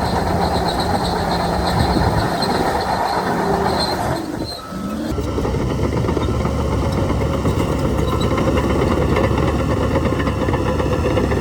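Heavy diesel earthmoving machinery running under load, a low engine drone with a steady metallic clatter. The sound dips briefly about four and a half seconds in, then carries on with a changed tone.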